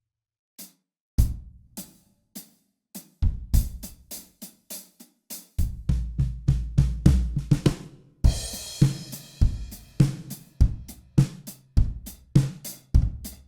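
Sampled acoustic drum kit, dampened with towels, playing a groove through the EZDrummer 3 Alchemy of Pop "Aer" main preset. It opens with a few separate hits, settles into a steady kick, snare and hi-hat beat about five and a half seconds in, and a cymbal crash rings out about eight seconds in.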